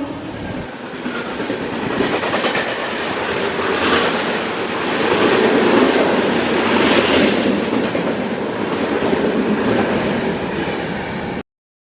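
Chennai–Bangalore Double Decker Express rushing past at high speed, its coach wheels clattering over the rail joints in a dense roar that swells in the middle and then cuts off suddenly near the end.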